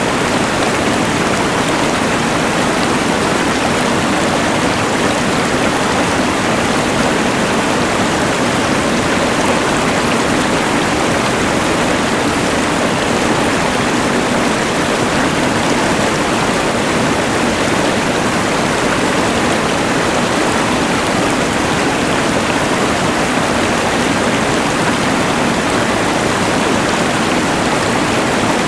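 Steady, unbroken rush of a mountain river blended with the constant hiss of a LectroFan white noise machine.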